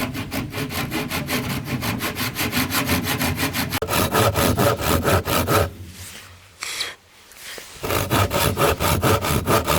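Wood being sawn by hand in quick, even strokes, about five or six a second. The sawing stops for about two seconds partway through, with a short metallic ring in the gap, then starts again.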